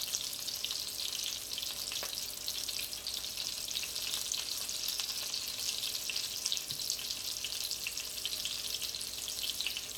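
Breaded chicken cutlets shallow-frying in hot oil in a pan, a steady crackling sizzle.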